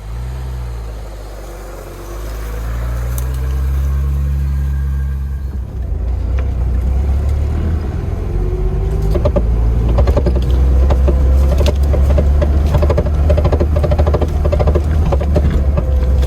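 Lada Niva driving, with the engine note rising over the first few seconds. It then settles into a loud, steady low drone, with many short rattles and knocks from about halfway in.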